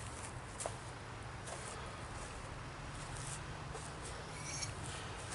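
Faint, scattered light clicks and rustles of grinder parts being handled during disassembly, over a low steady hum.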